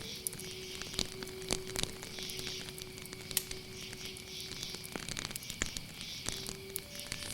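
Wood fire crackling with irregular sharp pops, over a steady high chirring of crickets.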